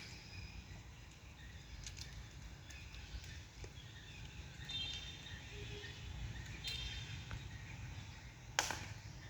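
Outdoor ambience with a low steady rumble, a few short high chirps about halfway through, and scattered sharp clicks, the loudest shortly before the end.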